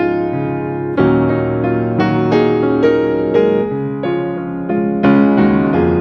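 Background piano music: a gentle melody with chords, notes struck several times a second.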